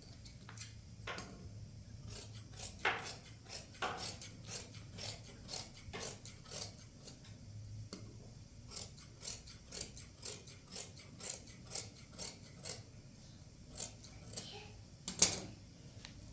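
A series of light, irregular clicks and taps, two or three a second, with one louder knock near the end.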